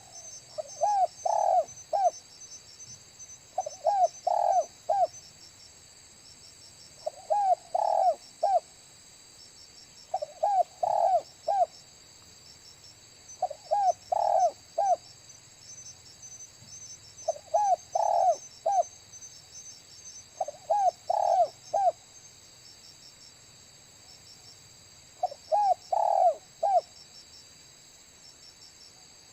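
Spotted dove cooing in short phrases of three or four notes, repeated about every three seconds, over a steady high-pitched insect trill.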